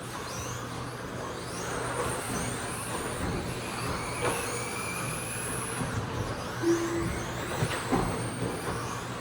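Electric RC stadium trucks with 13.5-turn brushless motors racing round the track: high motor whines rise and fall as they accelerate and brake, with a few sharp ticks. A short beep sounds about two-thirds of the way through.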